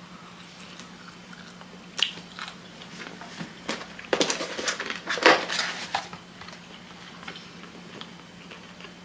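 A person chewing a mouthful of sushi roll with close, wet mouth sounds. There are scattered sharp clicks and crunches, busiest from about four to six seconds in.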